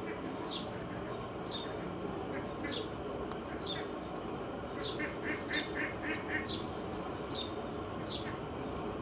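Birds calling: a short, high, downward chirp repeats about once a second, and around the middle a run of six quick, lower notes sounds, over steady background noise.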